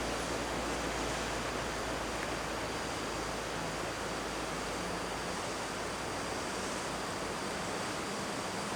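Steady, even rushing outdoor noise with no distinct events or engine sounds.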